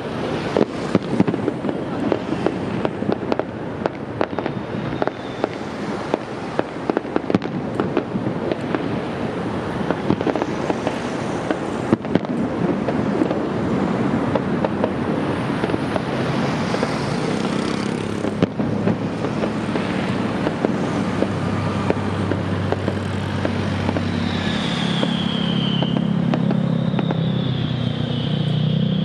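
Fireworks going off: a dense stream of sharp bangs and crackling pops that thins out after about two-thirds of the way. A steady low engine hum then builds beneath them, with two high falling whistles near the end.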